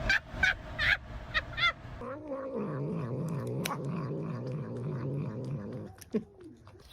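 Cat making a few short high chirps, then a long, low, wavering yowl lasting several seconds, and one short falling call near the end.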